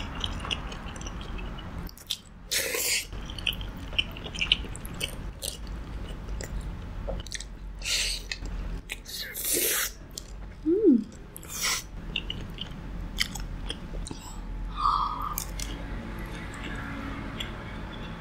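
Close-up bites and chewing of crispy fried food, with several loud crunches spread through the stretch. A short rising-then-falling tone sounds about eleven seconds in.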